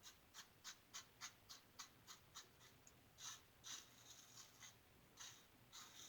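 1914 Ever-Ready single-edge safety razor scraping stubble through lather in short strokes, about three a second, then a few longer strokes from about halfway, on a pass across the grain. Faint scratchy rasping.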